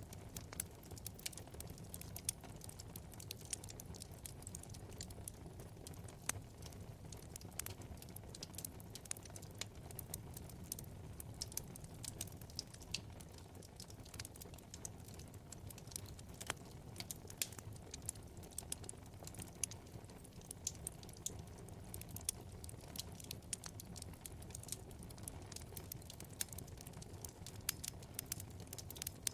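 Wood fire burning in a fireplace, crackling with many small irregular pops and an occasional sharper snap over a low steady rumble of the flames.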